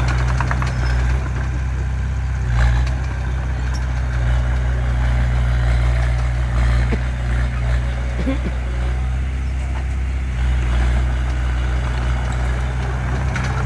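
Bulldozer's diesel engine running steadily with a deep, constant drone, and a single knock about two and a half seconds in.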